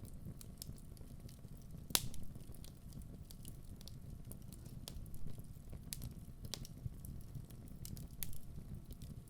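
Wood fire burning in a fireplace: a steady low rumble with irregular sharp crackles and pops from the burning logs, the loudest pop about two seconds in.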